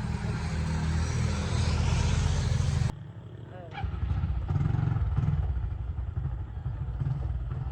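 Motorbike engine running with an uneven, fluttering note. It cuts off sharply about three seconds in and comes back about a second later.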